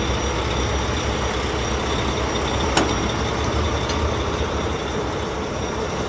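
Heavy truck engine sound effect running steadily, a low rumble with hiss, and a single sharp click a little under three seconds in.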